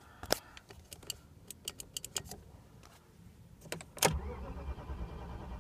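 Several light clicks, then a loud click about four seconds in and a steady low drone: the 1997 BMW 740iL's starter cranking the engine without it firing, which the owner suspects is for lack of fuel.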